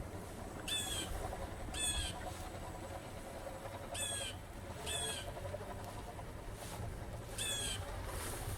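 A bird calling: five short, high, squeaky calls in pairs about a second apart, over a faint low rumble.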